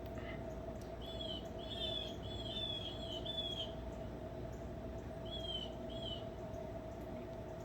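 A bird chirping: a quick run of five short, high chirps, then two more a little later, over a steady low hum.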